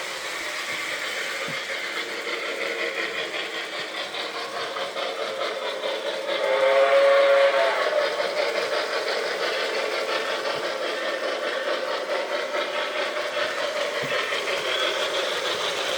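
Model train running along its track with a steady rumble, sounding a whistle once for about a second and a half, about six and a half seconds in.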